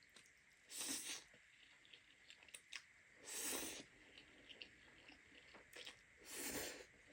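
A person eating close to the microphone: chewing with small clicks, broken by three louder rushes of noise, each under a second long.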